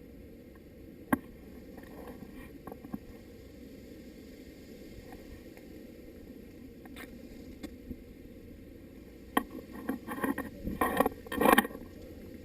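Steady low background noise with a few sharp clicks, then near the end a loud, irregular cluster of rustling, scraping and knocking.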